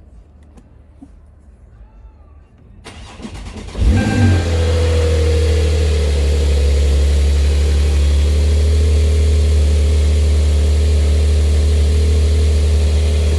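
Porsche 911 Carrera 4S flat-six starting from cold. After about three seconds of quiet, the starter cranks briefly, the engine catches with a loud rev flare about four seconds in, and it then settles into a steady idle.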